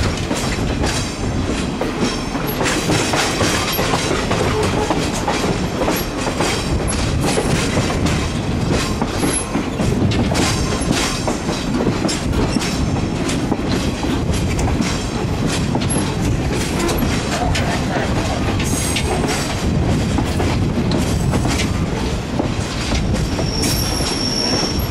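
Passenger train rolling slowly on the track, heard from on board: a steady rumble of wheels on rail with rattling clicks and clatter, and brief high wheel squeals now and then.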